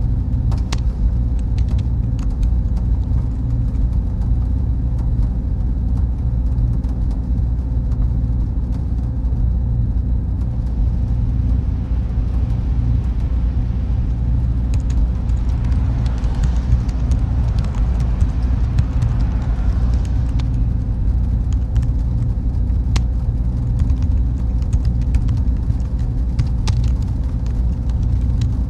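Steady low rumble of server-room machinery, with a faint steady hum and scattered faint clicks. A soft hiss swells up about halfway through and fades again.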